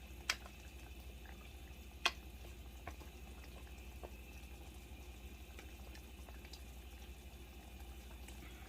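Quiet kitchen room tone with a steady low hum, broken by two sharp light clicks, one just after the start and one about two seconds in, and a few fainter ticks.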